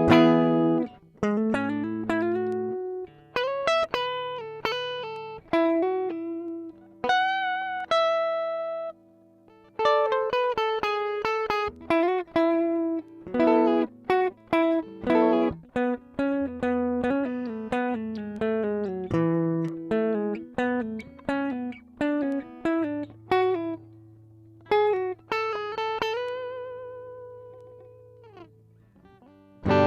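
Squier Bullet Mustang electric guitar played clean with no effects: a strummed chord, then picked single-note melody lines with slides and a few held notes left to ring, and a slide down near the end.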